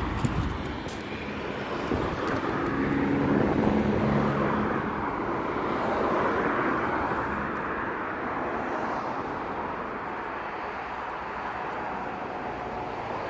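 A pressure washer spraying water onto a car in a steady rushing hiss that swells and eases as the jet moves over the bodywork.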